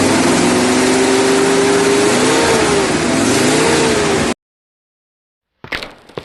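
Motor vehicle engine revving as a dubbed sound effect, its pitch climbing slowly and then rising and falling twice before it cuts off abruptly about four seconds in. After a moment of dead silence, short clicks and rustling come in near the end.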